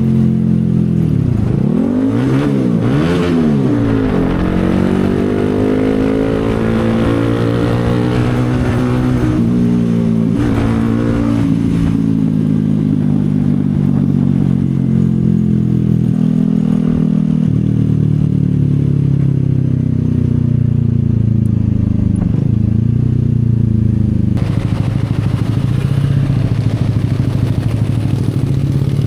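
CFMoto 250SR single-cylinder motorcycle engine under way, its pitch rising and falling several times in the first few seconds, then running steadier with smaller changes in revs. About 24 seconds in, the higher-pitched noise drops away and the engine runs on lower.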